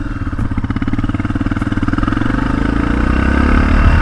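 Motorcycle engine pulling away from a stop and accelerating, growing steadily louder.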